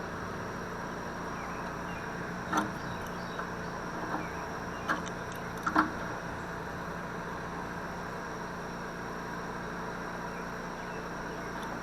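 A few light clicks and taps of small metal fittings being handled as a flare nut and olive are fitted onto a metal air line, over a steady background noise.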